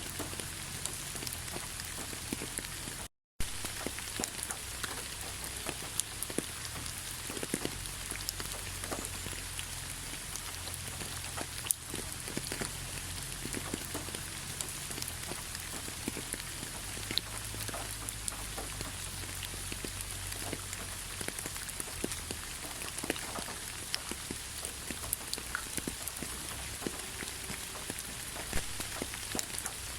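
Steady rainfall with many separate raindrops striking close by, heard as sharp ticks over an even hiss. The sound cuts out completely for a split second about three seconds in.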